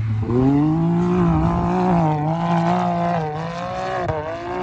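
Can-Am Maverick X3's turbocharged three-cylinder engine running with its muffler deleted, under throttle at high revs. The pitch climbs in the first half second, holds high with small wavers, dips briefly near the end and picks up again.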